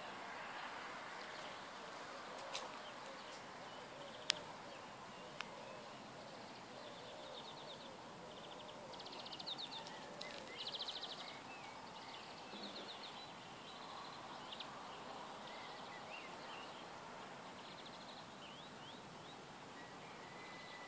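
Faint garden ambience with small birds singing: bursts of rapid high trills in the middle and scattered chirps, plus three sharp clicks in the first few seconds.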